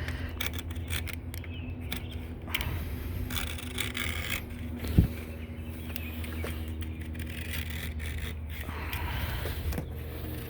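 Scraping and rubbing as heavy-duty pet screen is worked into a screen door frame, with a sharp click about five seconds in, over a steady low hum.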